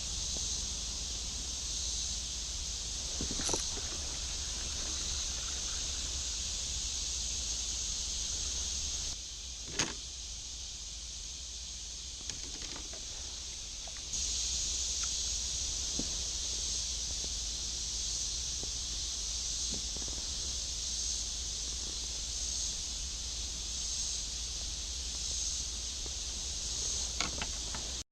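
Outdoor waterside ambience dominated by a steady, high insect chorus, over a low rumble. It breaks off for a few seconds in the middle, and a few short knocks come through, such as a kayak paddle or tackle against the hull.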